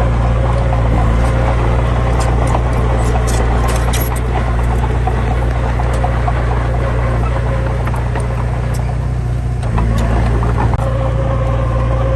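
Heavy diesel engine running steadily under load, with scattered clicks and rattles over the low rumble; the low note shifts slightly near the end.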